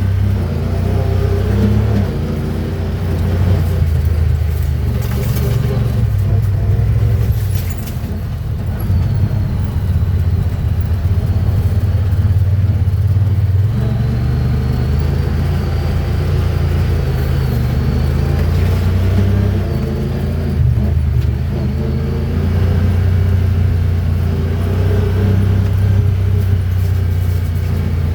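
Honda Pioneer 1000-5 side-by-side's parallel-twin engine running under load on a trail, its pitch rising and falling with the throttle, easing off briefly a couple of times. Short rattles are heard now and then over the engine.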